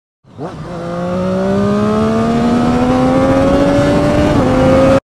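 Motorcycle engine accelerating under load, its note climbing steadily in pitch with a slight dip near the end, over a steady rush of wind and road noise; it starts and cuts off suddenly.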